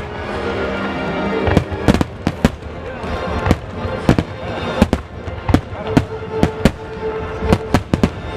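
Fireworks going off in a long, irregular run of sharp bangs, roughly two a second, over background music.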